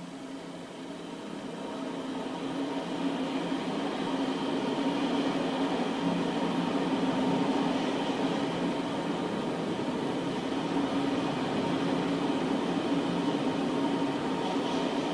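Freight train passing: covered wagons rolling on the rails behind an SNCF BB 26000 electric locomotive, a steady rumble with a constant hum that builds over the first few seconds and then holds.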